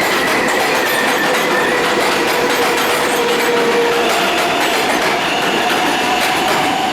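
NYC Subway R188 train running through the station at speed. Its AC traction motors give a steady whine that steps up in pitch about four seconds in, over the rush of the cars and the clatter of the wheels.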